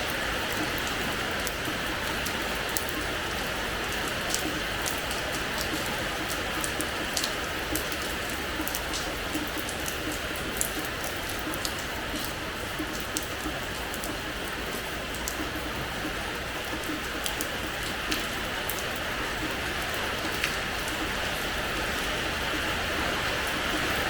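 Steady rain falling on a hard terrace floor: an even hiss with many sharp, scattered drop hits on top.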